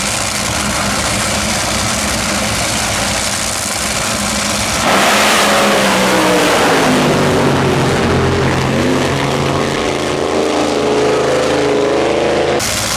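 Race car engine noise under a loud, hissy roar. About five seconds in the sound changes abruptly, and an engine's pitch drops, then climbs again as it revs up.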